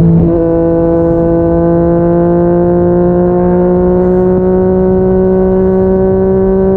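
Yamaha MT-09 three-cylinder engine through a Yoshimura R55 slip-on exhaust, heard from the rider's position at highway speed. The revs dip briefly right at the start, then the engine pulls steadily, its drone slowly rising in pitch as the bike gently accelerates, over low wind rumble.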